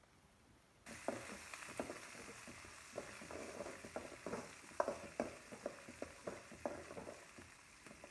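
Chopped onion and garlic sizzling in hot oil in a pan while a steel ladle stirs them, with irregular clinks and scrapes of the ladle against the pan. The sizzle starts suddenly about a second in.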